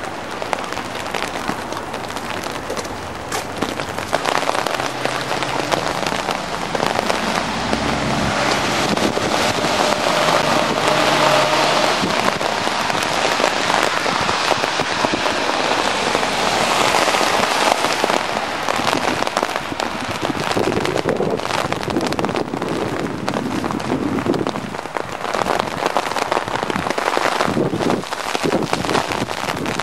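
Heavy wet snow falling in a sudden snowstorm shower, a dense steady hiss of many small hits on surfaces that swells toward the middle.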